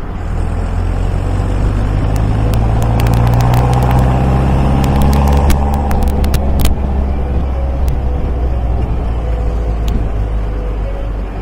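MGA sports car's engine running on the road, its pitch rising slightly to a peak about halfway through and then easing off. A run of sharp clicks sounds over the middle, ending with a louder one.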